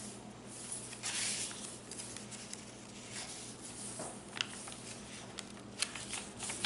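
Paper rustling as a handmade junk journal's fold-out page is opened and handled, with a longer rustle about a second in and a few light taps and clicks in the second half.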